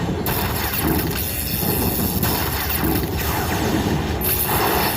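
Slot machine win sounds and jingles over the steady din of a busy casino floor.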